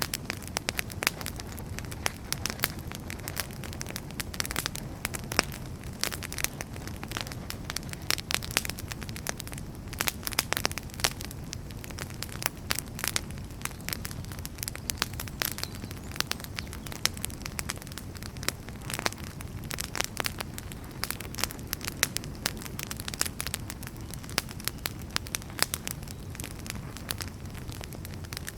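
Wood fire burning in a fireplace: a steady low rumble and hiss of the flames with frequent irregular crackles and pops from the burning firewood.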